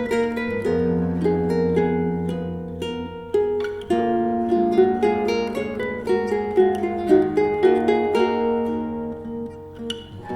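Music played on a plucked string instrument: a run of picked notes, each ringing and fading, with brief pauses about three and a half seconds in and again near the end.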